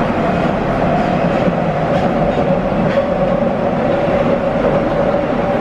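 Nagoya Municipal Subway 2000 series train running, heard from inside the car: a steady rumble with a whine that dips slightly in pitch partway through, and a few faint wheel clicks.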